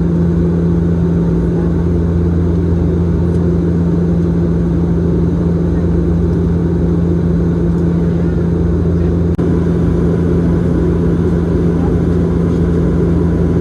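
Steady cabin drone of a Bombardier Dash 8-Q400 in flight: its Pratt & Whitney PW150A turboprops and six-blade propellers give a loud, unchanging low hum. A brief dropout comes about nine seconds in.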